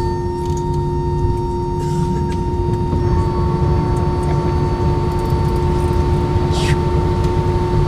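Airbus A320-232 cabin noise from a seat over the wing: the IAE V2527 jet engines running at taxi power, a steady low rumble with a constant whine whose upper tone edges slightly higher about three seconds in.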